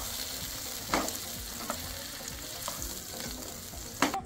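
Chopped banana pieces sizzling as they fry in ghee in a pan, with a few sharp knocks from stirring against the pan; the loudest knock comes near the end.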